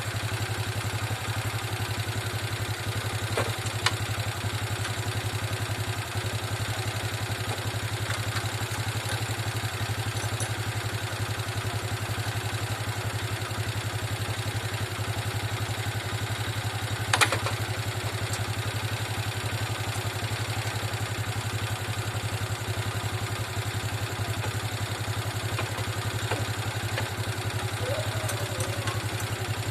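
Motorcycle engine idling steadily, with a few sharp clicks and one louder knock about 17 seconds in.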